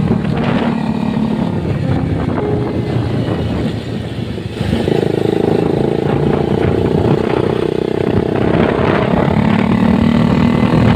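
Motorcycle engine running on the move. The engine note dips briefly about four seconds in, then holds steady.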